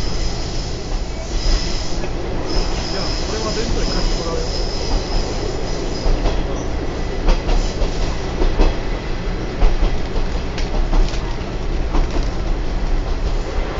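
Trolley train car running along the track: a steady rumble with scattered wheel clicks over rail joints. A high, steady wheel squeal sounds from about a second and a half in until about six seconds in.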